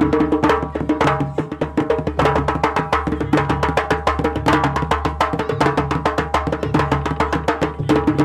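Traditional Malian drumming: fast, dense hand-drum strokes, several a second, with sustained pitched tones layered over the rhythm.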